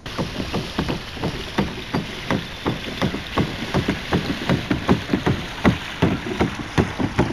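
A kayak moving through the water: rapid, fairly regular knocks and splashes, about four a second, over a steady wash of water and wind noise.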